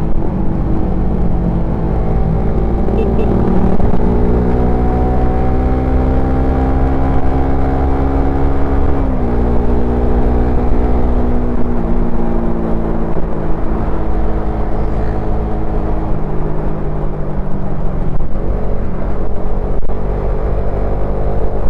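Suzuki Satria FU FI's single-cylinder four-stroke engine and exhaust under way, the engine note climbing steadily, dropping sharply about nine and twelve seconds in as gears change, then easing off near the end, over a low rumble.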